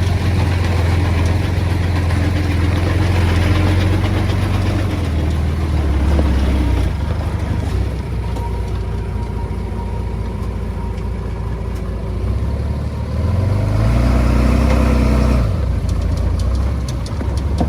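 Heavy diesel engine of earthmoving machinery running steadily with a low drone. It revs up about two-thirds of the way in, holds for a couple of seconds, then settles back.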